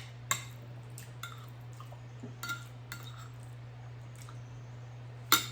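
Eating utensils clinking and scraping against a bowl in a few separate taps, the loudest near the end, over a steady low electrical hum.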